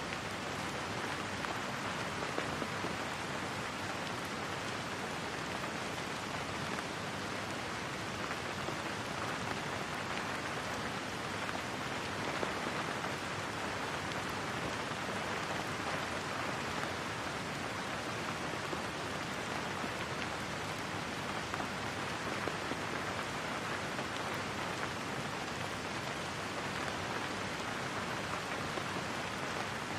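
Steady rain falling: an even, unbroken hiss of rain on surfaces, with no thunder.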